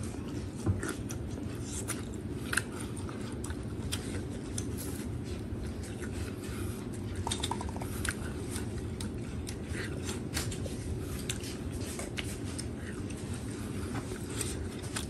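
A person chewing mouthfuls of soft stewed yellow-fat beef close to the microphone, with scattered wet mouth clicks.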